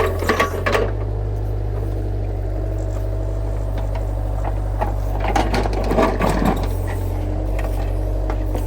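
Excavator engine running steadily, with the bucket clanking and scraping in rocky ground at the start and again from about five to seven seconds in.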